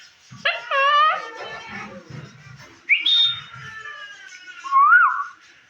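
Indian ringneck parakeet calling and whistling: a wavering call about half a second in, then a long whistle that jumps up and slowly falls about three seconds in, and a short rising-and-falling whistle near the end.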